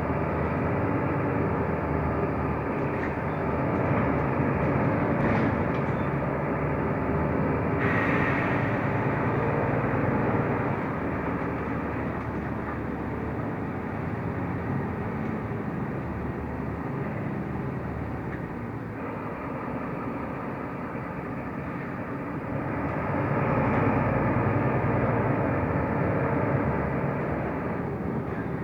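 A Mercedes-Benz O345 Conecto LF city bus under way, heard from inside: steady engine and road noise that swells twice for a few seconds, with a short hiss about eight seconds in.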